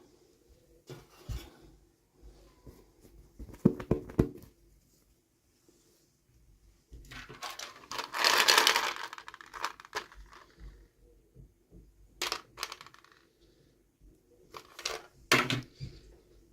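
Handling sounds from unboxing small plastic toys: scattered sharp clicks and knocks, with a longer rustling, tearing-like stretch about seven to ten seconds in that is the loudest part.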